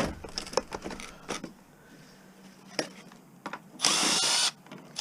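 Power drill run in one short burst about four seconds in, its motor pitch shifting as it spins, while dismantling scrap equipment; scattered light knocks come before it.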